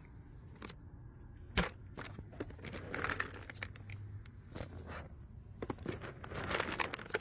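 Rustling and handling noise with scattered clicks and knocks, one sharp knock about a second and a half in and longer rustles near the middle and near the end.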